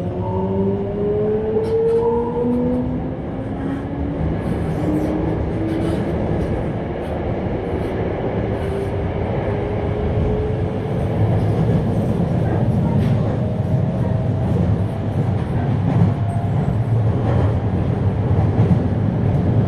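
Toei 5300-series electric train accelerating: its inverter and traction motor tones rise in pitch over the first several seconds, then the car runs on with a steady rumble of wheels on rail that grows slightly louder toward the end.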